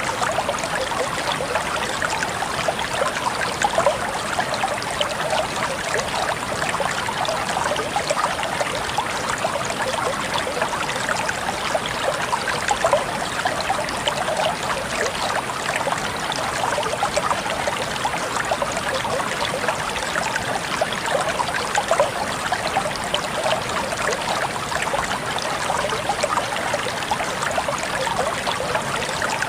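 Water flowing steadily in a stream, a constant splashing trickle with no change in flow.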